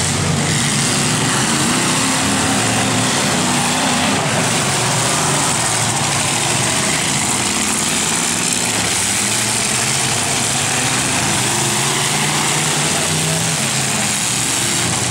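Engines of several demolition-derby trucks running hard together, a dense steady din with wavering engine tones underneath.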